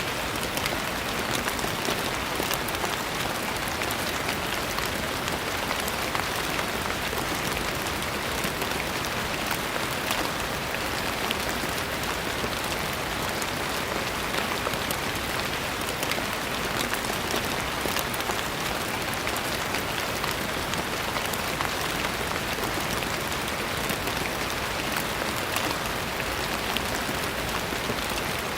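Steady rain falling on a surface: an even hiss with many small sharp drop ticks throughout.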